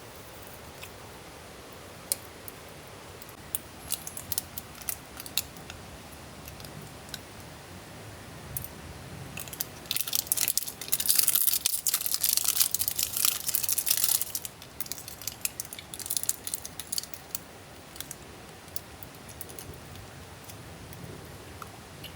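Campfire crackling with scattered sharp pops over a steady low hiss, turning into a dense, louder run of crackling about ten seconds in that dies back after about four seconds.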